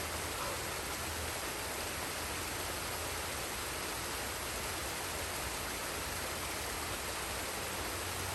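Forest waterfall and stream, water falling and rushing with a steady, unchanging hiss.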